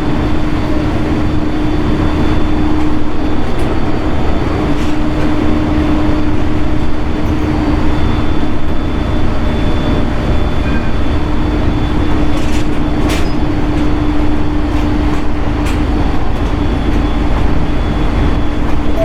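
JR East 701 series electric train running between stations, heard from inside the passenger car: a steady rumble of wheels on rail with a low hum that comes and goes and a few short clicks.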